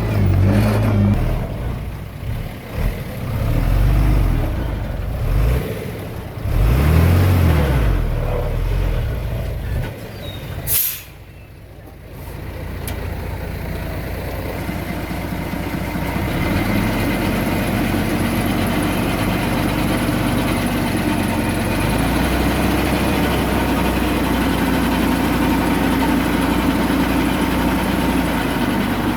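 Diesel engine of heavy earthmoving machinery working, its pitch rising and falling for about the first ten seconds. A brief sharp hiss comes about eleven seconds in, after which the engine runs at a steady pitch.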